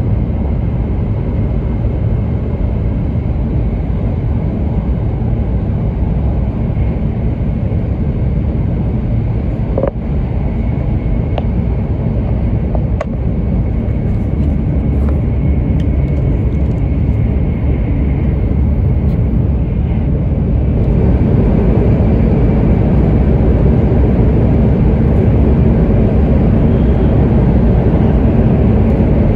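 Cabin running noise of an E7/W7-series Hokuriku Shinkansen train at speed: a steady low rumble that steps up louder about 21 seconds in, with a few faint clicks before that.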